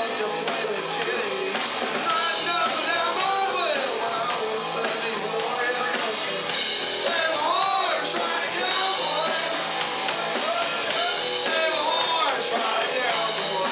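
Country-rock band playing live, with drums and electric guitar driving a steady beat under a bending melodic lead line.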